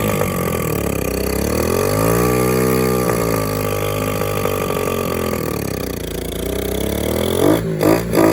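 Dirt bike engine running and being revved, its pitch rising and falling in slow swells two or three times, then turning choppy near the end. The bike would not hold an idle, so it needed constant throttle to keep running.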